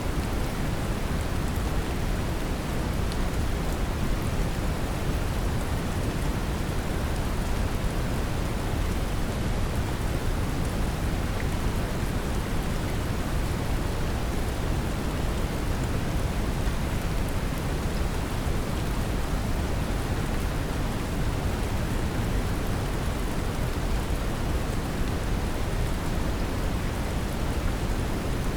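Steady brown noise mixed with gentle rain: an even, unchanging rushing hiss weighted toward the low end, with the patter of rain on top.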